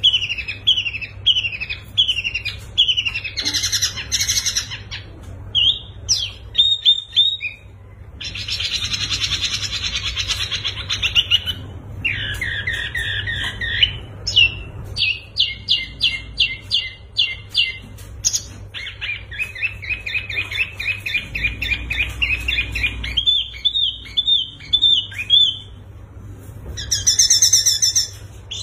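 Songbirds singing and calling: one pattern after another, each a few seconds long and changing abruptly. There are repeated falling chirps, then fast buzzing trills, runs of short sharp notes, and high whistled notes near the end, all over a steady low hum.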